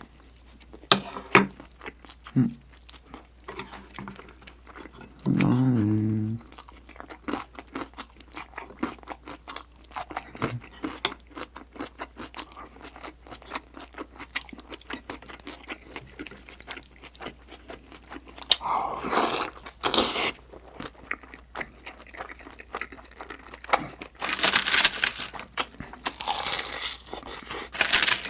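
Close-miked chewing and crunching of food in a mukbang, with a steady stream of small wet clicks. About five seconds in there is a short hummed voice sound, and near the end come several louder, noisy bursts of crunching.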